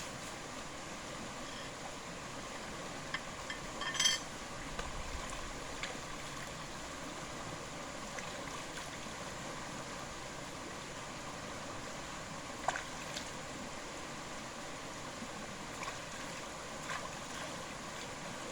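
Steady background hiss of the night forest with a few short clicks and knocks, the loudest about four seconds in and another near thirteen seconds.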